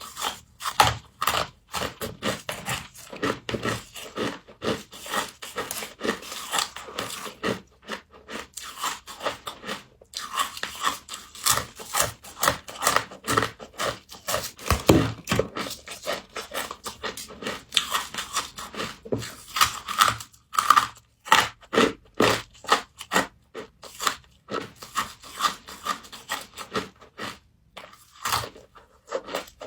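Close-up crunching and chewing of frost, a rapid, irregular crackle of packed ice crystals breaking between the teeth, with brief pauses.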